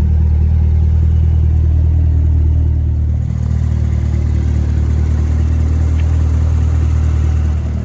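2019 Corvette ZR1's supercharged 6.2-litre LT5 V8 idling steadily.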